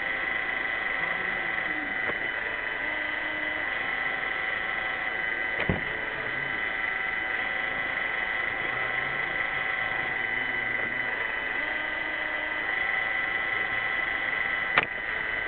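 Roomba 600 robot vacuum running, its motors and brushes giving a steady whine with a hiss beneath. Two sharp knocks sound, about six seconds in and again near the end.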